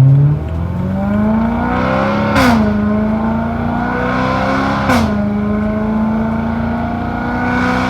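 BMW E93 M3's V8 running through a catless resonated X-pipe with the exhaust valves open, under light acceleration: the engine note climbs, drops sharply at an upshift about two and a half seconds in and again about five seconds in, then climbs again. The exhaust turns higher-pitched and raspy above about 3,000 rpm.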